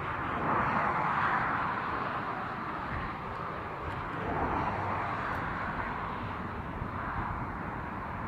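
Freight train rolling past with a steady rumble and rolling noise, swelling slightly about a second in and again midway.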